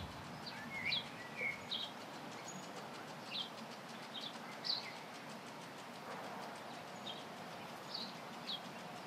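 A small bird chirping: short, high chirps repeating every half second to a second, over a faint steady background noise.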